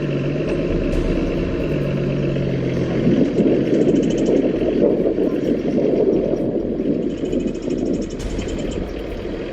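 A vehicle engine idling steadily, with a low hum.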